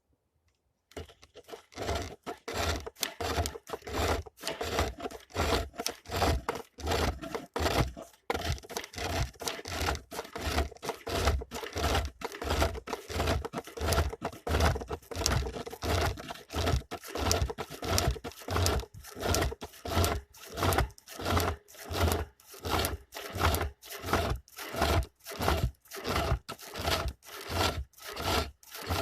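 Turning tool scraping and cutting into wood on a homemade lathe, in a steady rhythm of strokes about two a second, with a low thump under each one, starting about a second in.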